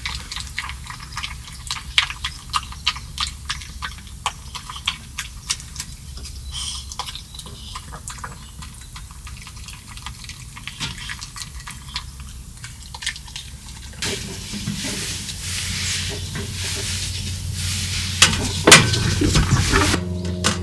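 Cooking utensils clicking and scraping against pots and dishes, with some liquid sounds: many quick sharp clicks at first, then about two-thirds of the way in a steadier hiss with a few loud clacks near the end.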